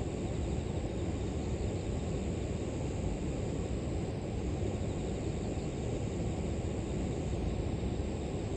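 River water flowing steadily: a continuous low rushing noise, with a faint, high, steady insect trill above it.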